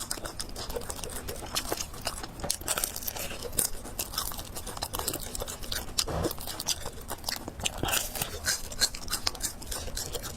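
Close-up mouth sounds of someone eating fried noodles with pork: chewing and slurping with many irregular wet clicks and crunches.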